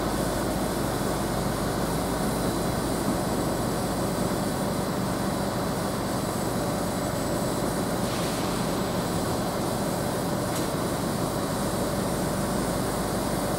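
A Greater Anglia Class 755 train running steadily as it draws slowly into the platform before stopping.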